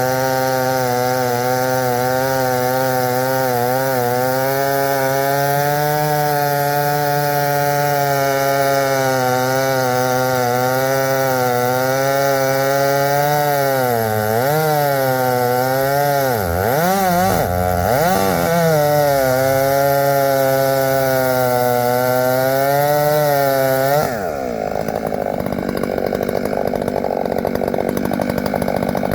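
Gas chainsaw running at high revs, cutting through poplar wood, its engine pitch wavering and dipping several times as the chain loads in the cut. About five seconds from the end the clear engine note drops away into a rougher sound for a few seconds.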